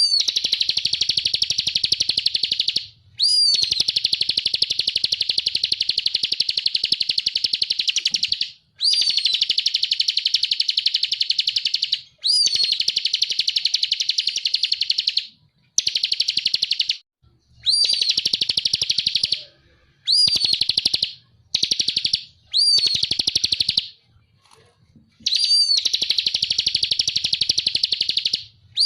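A ciblek (prinia) singing in long, very rapid buzzing trills, the 'ngebren' song used as a masteran for training cage birds. Each bout opens with a short upswept whistle and runs for one to five seconds, with short pauses between, about ten bouts in all.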